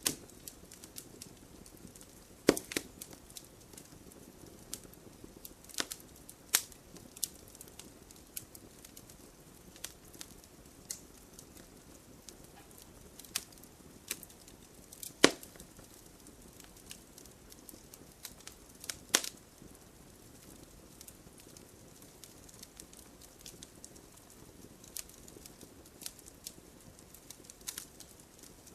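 Wood campfire crackling, with irregular sharp pops and snaps over a soft, steady hiss of burning; the loudest pops come a few seconds in, about halfway through and a few seconds later.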